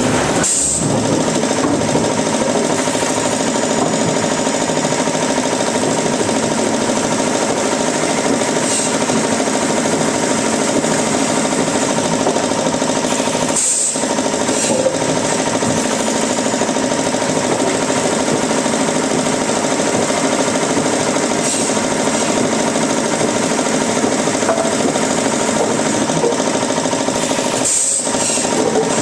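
Woodworking machinery running steadily with a constant mechanical drone, broken by brief dips once near the middle and again near the end.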